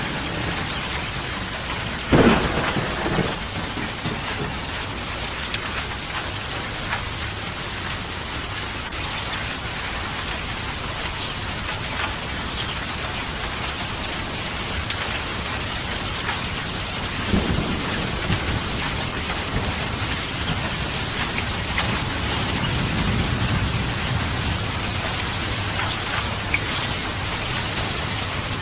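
Steady rain falling through a thunderstorm, with a sharp clap of thunder about two seconds in, another clap past the middle, and a low rumble of thunder after it.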